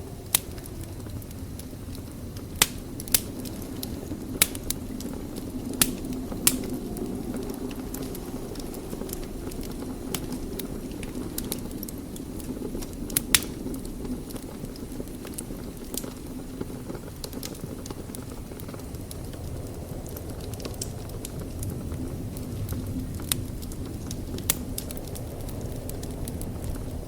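Wood fire burning in a fireplace: a steady low roar of flames with sharp crackles and pops scattered through, about ten loud ones, more of them in the first half.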